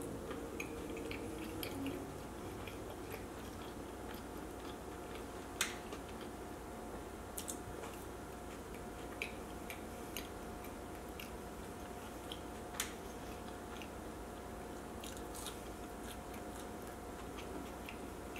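A person chewing fried sweet plantain close to the microphone: soft, wet mouth clicks at uneven intervals, with two sharper clicks about five and a half and thirteen seconds in, over a steady faint hum.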